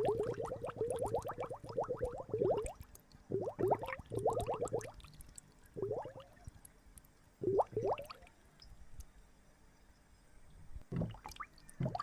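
Water gurgling and splashing in bursts of quick rising blips, dense at first and then thinning out to scattered drips and gulps.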